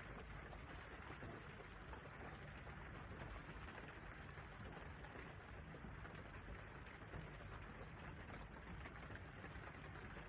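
Steady, faint rain falling, with scattered light drop ticks.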